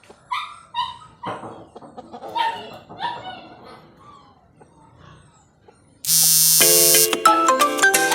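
A few short animal calls over the first five seconds, then an electronic ringtone-like melody of steady stepped notes starts abruptly about six seconds in, much louder than the calls.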